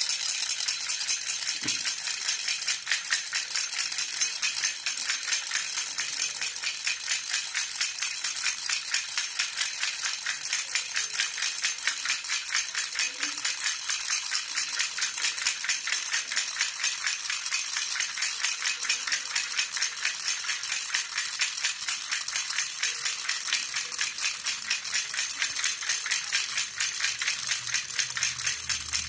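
Silver jhunjhuna baby rattle shaken in a fast, steady, unbroken rhythm, its metal pieces jingling and clattering.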